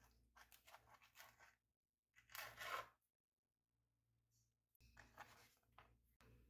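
Faint kitchen food-preparation handling sounds: soft scattered rustles, with one louder noisy sound lasting under a second about two and a half seconds in, then a brief near-silence before the rustling resumes.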